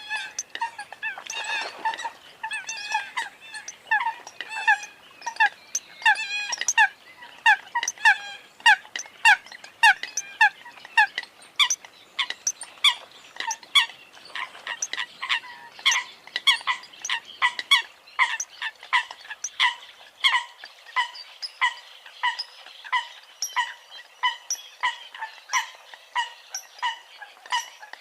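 Eurasian coots calling: a continuous run of short, honking calls, about two a second.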